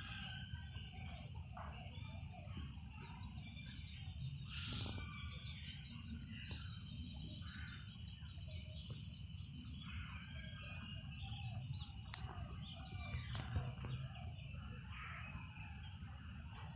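Small birds chirping and calling at irregular intervals, short chirps scattered throughout, over steady background noise with a constant high-pitched whine.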